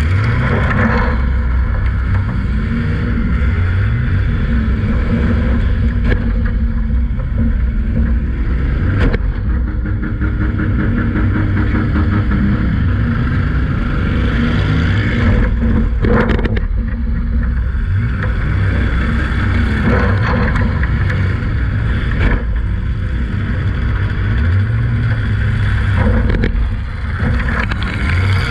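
Demolition derby car's engine revving up and down, heard from inside the car, with a few sharp bangs of collisions about a third, halfway and near the end.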